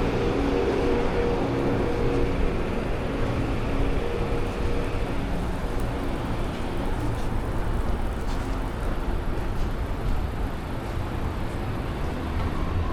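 City street traffic: a steady rush of passing cars and vehicles, with one vehicle's engine hum standing out in the first few seconds before fading.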